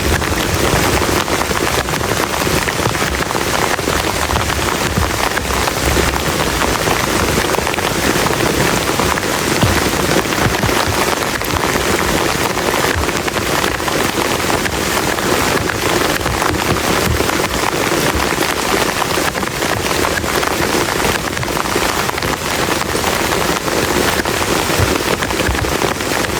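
Heavy rain falling steadily, a dense, even hiss of drops that stays at the same level throughout.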